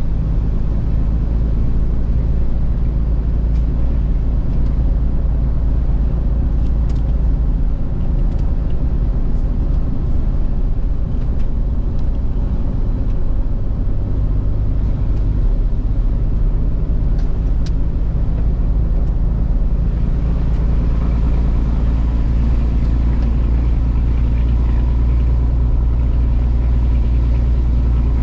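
A truck being driven: a steady low engine and road rumble with a few light clicks. The engine's pitched note stands out more clearly over the last several seconds.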